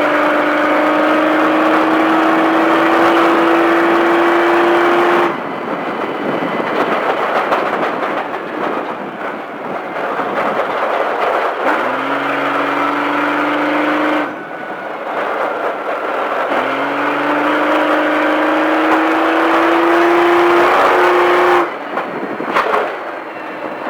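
Baja race truck's engine pulling under throttle, its note climbing steadily, broken by lifts off the throttle about 5, 14 and 22 seconds in. At each lift the engine note drops away into rough noise from the truck.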